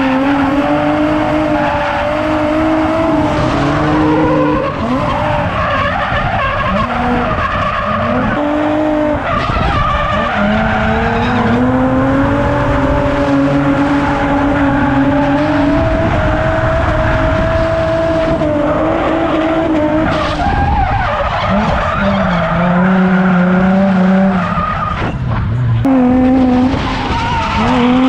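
Drift car's engine revving hard and held high through long slides, with tyres skidding; the engine note drops away and picks up again several times.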